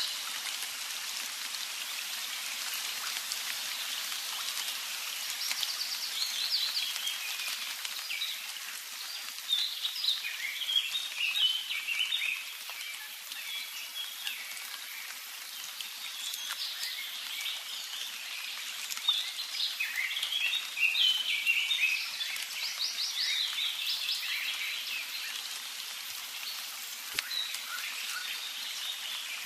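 Birds chirping and singing in many short, quick calls, busiest around a third of the way in and again past the middle, over a steady outdoor hiss.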